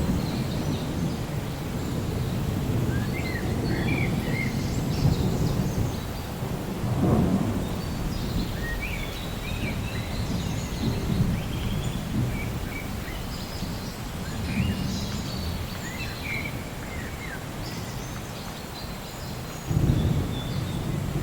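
Thunder rumbling low and continuously through steady rain, swelling about a third of the way in and again with a louder roll near the end. Birds chirp briefly now and then over it.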